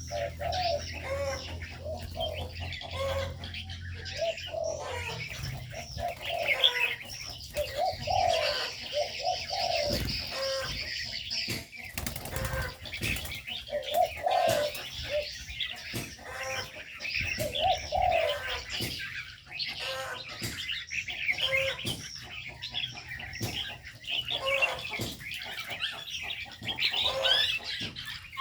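Aviary birds: spotted doves give repeated low cooing notes, over a dense chorus of small birds chirping and twittering, with occasional brief wing flaps.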